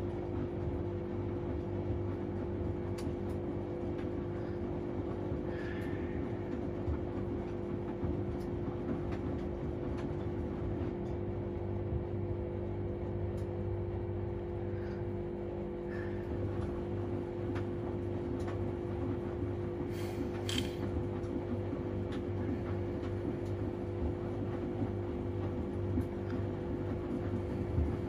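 Washing machine running with a steady, unchanging motor hum, with a few faint ticks.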